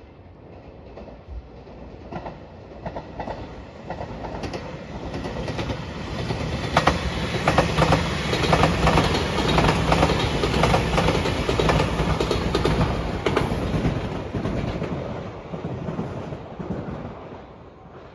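A JR Shikoku 8600 series electric limited express train passes. Its wheels clack over the rail joints in a quick run of clicks. The sound builds up, is loudest in the middle, and fades away near the end.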